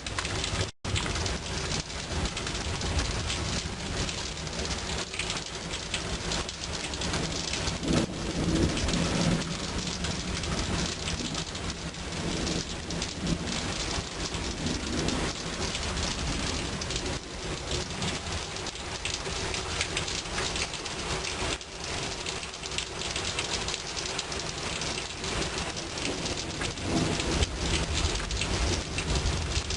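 Thunderstorm: rain falling steadily, with a low rumble of thunder rolling through about eight seconds in. The sound drops out for an instant just under a second in.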